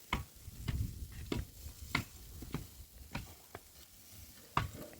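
A series of sharp knocks or taps, irregular, roughly one every half second, some with a dull thud beneath.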